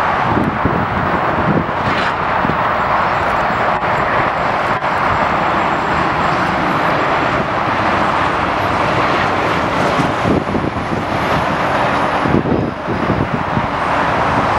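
Jet airliner engine noise: a steady, loud rush that holds for the whole stretch.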